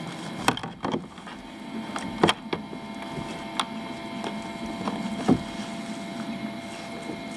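A kayak paddle knocking and clicking against the kayak as it is locked into place: about five separate sharp knocks, the loudest a little over two seconds in and about five seconds in, over a faint steady hum.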